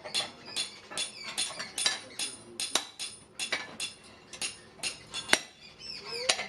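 Blacksmith's hammer striking steel on an anvil, about three blows a second, each with a short metallic ring.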